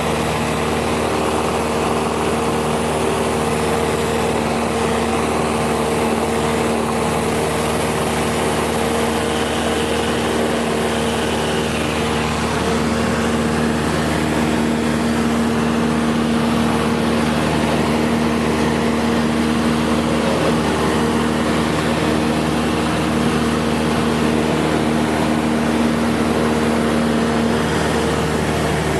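Cessna 172 SkyHawk II's four-cylinder piston engine and propeller droning steadily in flight, a constant low hum over a rush of air.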